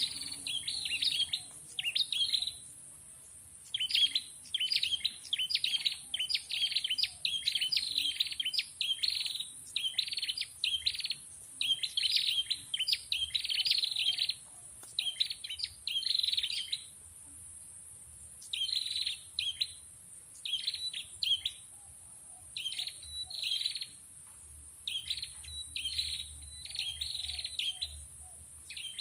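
Prenjak chirping in quick runs of short, sharp phrases with brief pauses between runs, over a steady high hiss. This is the call used to lure a red-headed prenjak.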